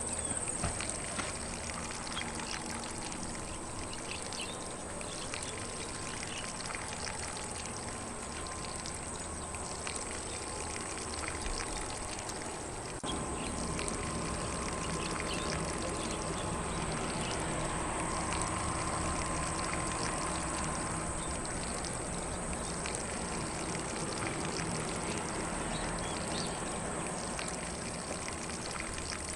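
Lawn sprinkler spraying water onto grass: a steady hiss with a fine patter of drops, getting a little louder about halfway through.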